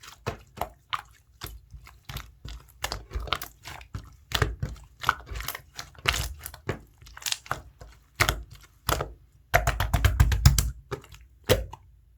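Clear slime being squished and pressed by hand: an irregular run of short sticky clicks, with a dense flurry of them near the end.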